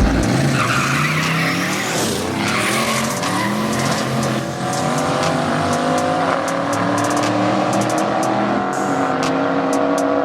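Drag-racing car launching hard, tyres squealing for the first couple of seconds, then its engine pulling with rising pitch. The pitch drops at a gear change about six seconds in and climbs again.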